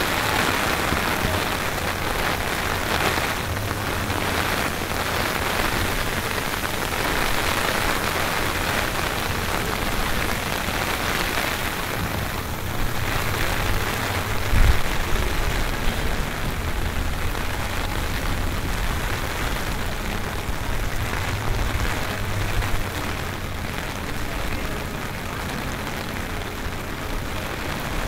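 Steady rain falling in the early bands of a hurricane, with low rumbling gusts of wind on the microphone, the strongest about halfway through.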